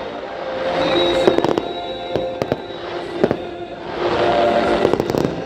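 Aerial fireworks going off: a series of sharp bangs with two swells of crackling fizz, one about a second in and a bigger one near the end, over background music.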